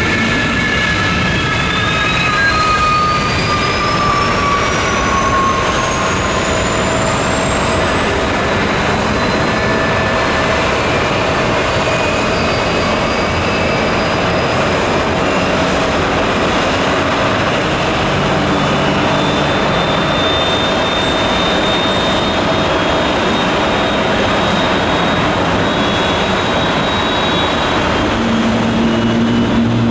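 Boeing 777-300ER's GE90-115B jet engine spooling up, a thin whine rising steadily in pitch over a constant jet roar, typical of an engine start. A second, lower tone falls in pitch during the first few seconds.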